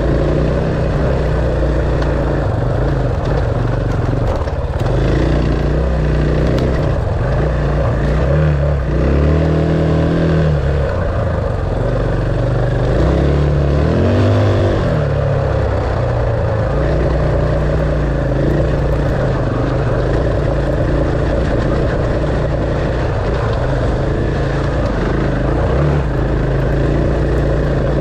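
Enduro dirt bike engine running on the trail, its revs rising and falling, with the clearest swings in pitch about a third of the way in and again about halfway through.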